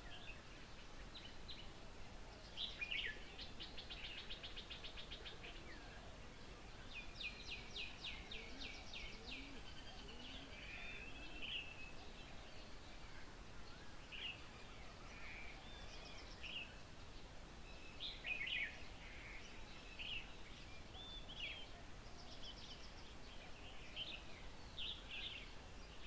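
Several birds calling and chirping, including two long rapid trills of repeated notes, the first a few seconds in and the second about seven seconds in, over a steady outdoor background hiss.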